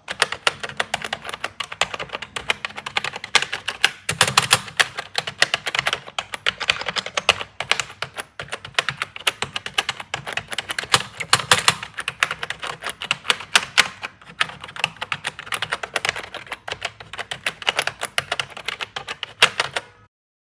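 Continuous fast typing on a vintage computer keyboard: a dense stream of key clicks, with louder clusters of strokes about four seconds in and again around eleven seconds. It cuts off suddenly near the end.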